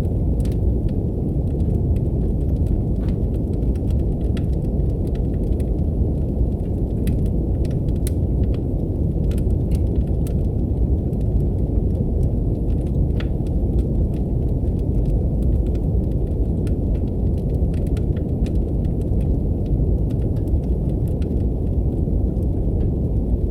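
Steady brown noise, a low, even hiss, mixed with the irregular crackles and pops of a wood fire burning in a fireplace.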